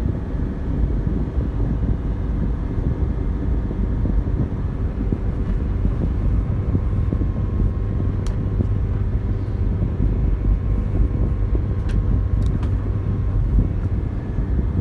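A motor vehicle engine running steadily, with a continuous low rumble and wind noise on the microphone. A few sharp clicks come about eight seconds in and twice near twelve seconds.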